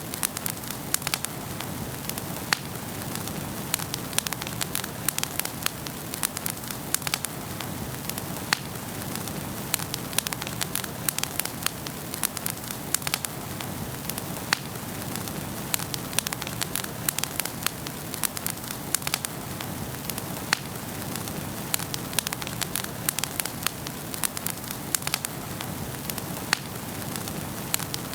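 Wood fire in a fireplace crackling and popping: a steady hiss of burning logs with frequent sharp, irregular pops.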